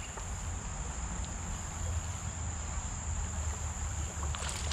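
Crickets trilling in one steady, high, unbroken tone, over a low rumble.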